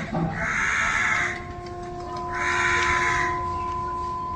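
Harsh, raspy bird squawks: one long call lasting about a second at the start and another in the middle, with a faint steady tone running underneath from about a second and a half in.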